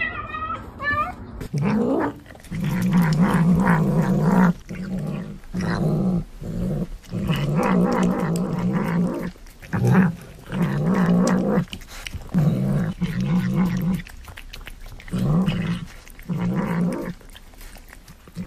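A cat growling: a low, wavering growl that comes in repeated spells of one to two seconds with short breaks between them.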